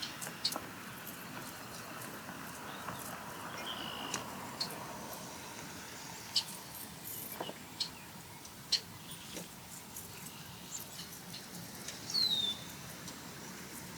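Outdoor hiss with scattered faint clicks and two brief bird calls: a short note about four seconds in and a falling whistle near the end.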